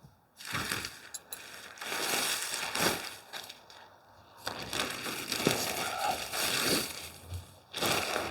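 Tent fabric rustling and crinkling as it is handled and shaken out, in two long stretches with a short lull about four seconds in.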